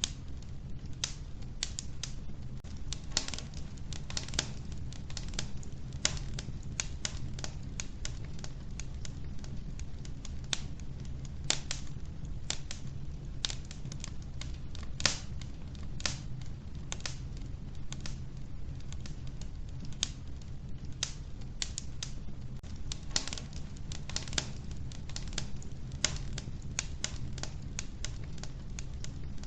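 Wood fire burning in a wood-burning stove, with irregular sharp crackles and pops over a steady low rumble of the flames.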